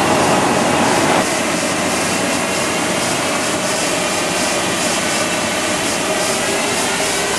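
Lada Vesta's 1.6-litre four-cylinder engine running under load on a chassis dynamometer over a loud steady rush of noise, its pitch climbing slowly as the revs rise. There is a slight drop in loudness about a second in.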